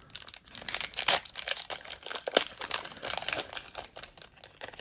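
Foil wrapper of a Pokémon trading-card booster pack crinkling and crackling as it is handled, a quick irregular run of crackles.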